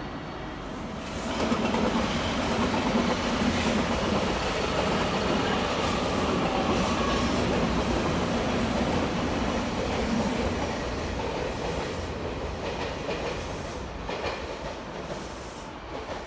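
Electric train running on the rails: a steady rumble with wheel clatter over the rail joints. It rises sharply about a second in, stays loud for around ten seconds, then fades away.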